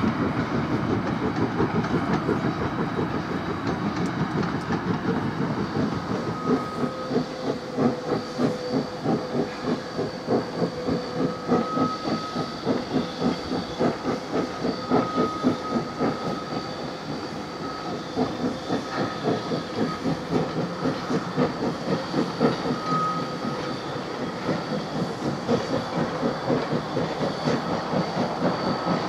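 A steam-hauled train running: the 1909 A-class 4-6-2 Pacific steam locomotive A 428 working its train, with a steady rhythm of exhaust beats and carriage wheels clicking over the rail joints, and a few brief high tones now and then.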